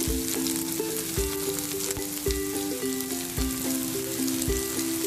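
Chopped onion, curry leaves and coriander sizzling in hot oil in a kadai, under background music with a low beat about once a second.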